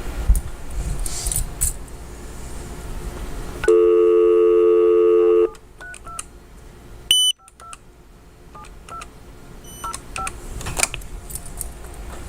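Telephone dial tone for about two seconds, cut off abruptly, then a short high beep and a string of brief keypad tones as a number is dialled. A low vehicle-cabin rumble sits underneath before the tone starts.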